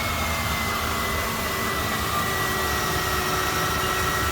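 2000 Lincoln Town Car Cartier's 4.6-litre V8 at a steady fast idle seconds after a cold start, with a high whine that eases down in pitch then holds steady as the idle settles. It runs smoothly with no odd noises.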